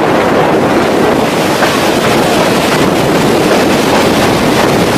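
Passenger train running: a steady rushing noise of the moving coaches with wind buffeting the microphone.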